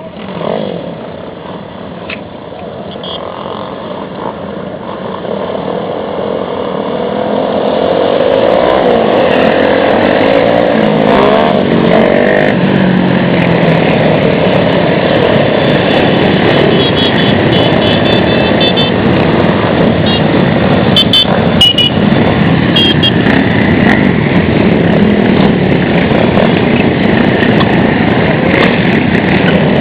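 Many Honda Monkey and Dax minibikes' small single-cylinder four-stroke engines running and revving together. The sound grows louder over the first eight seconds, then settles into a dense, loud din of overlapping engine notes that rise and fall.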